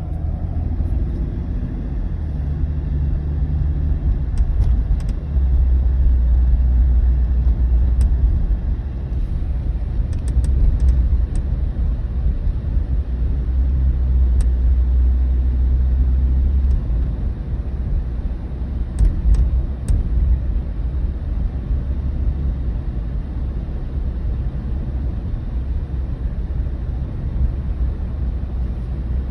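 Low steady rumble of a moving Toyota Tundra heard inside the cab, with scattered faint clicks from the windshield/dash area, some coming in quick clusters of two or three.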